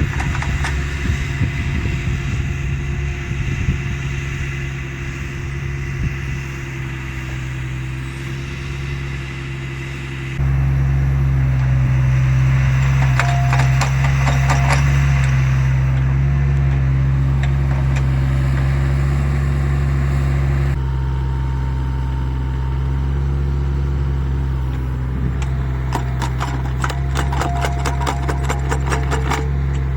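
Small excavator's engine running steadily while digging a trench. About ten seconds in it gets louder, as under load, and eases back a little some ten seconds later. Rattling clanks come from the working arm and bucket twice, around 13–15 s and again near the end.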